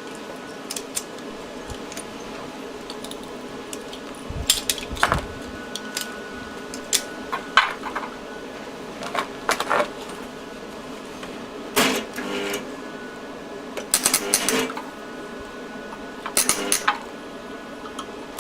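Metal parts of an e-bike hub motor clinking and tapping in irregular short clusters as the back plate is handled and fitted.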